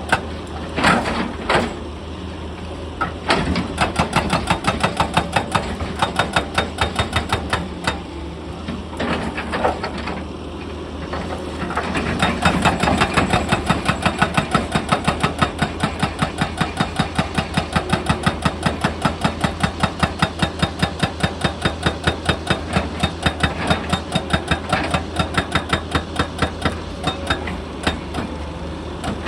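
Excavator-mounted hydraulic rock breaker hammering on stone in a fast, even train of sharp blows, several a second, with brief pauses near the start and about a third of the way in. The excavator's diesel engine drones steadily underneath.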